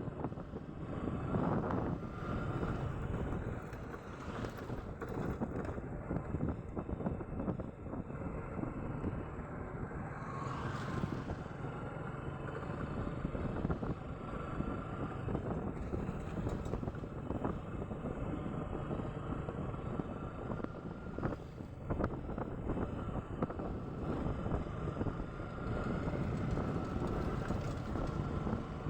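Motorcycle on the move, its engine running with wind buffeting the microphone.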